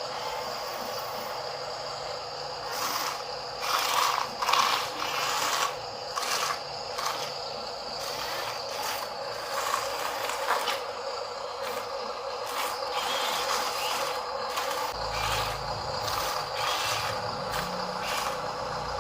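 Electric motor and plastic gearbox of a Huina RC dump truck whining steadily, with scattered clicks and clatters from its moving parts. A low rumble joins in for the last few seconds.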